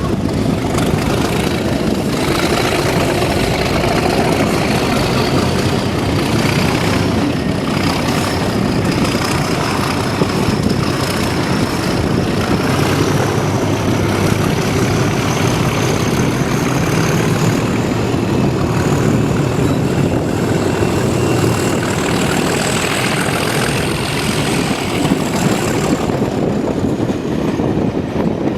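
Diesel train running: a steady heavy engine noise with a thin high whine that climbs slowly in pitch for most of the time, then falls away near the end.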